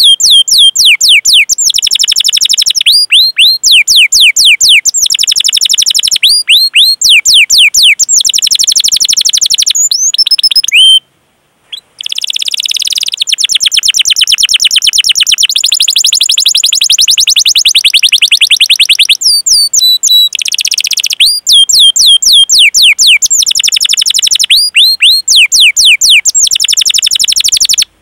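Domestic canary singing: fast rolling trills and rapid series of high, falling chirps, with a brief break about eleven seconds in.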